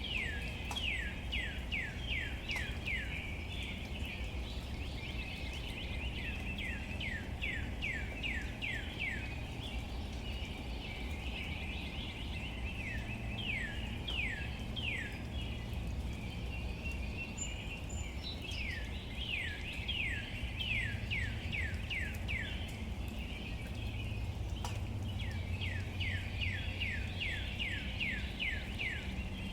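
Rain falling on leaves over a steady low rumble. A bird calls in repeated bursts of quick, downward-sliding notes, about three or four a second, five bursts in all.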